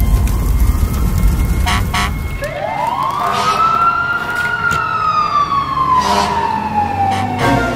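A siren wailing: one long wail that rises quickly, then falls slowly, over a low rumble in the first couple of seconds, with a few sharp clicks.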